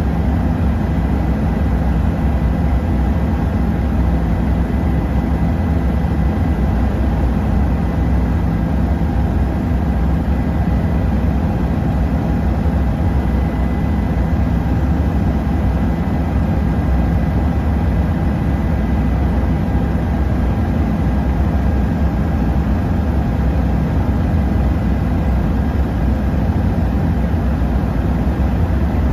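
Helicopter rotor and engine running steadily, a loud, even low drone with a faint high whine over it.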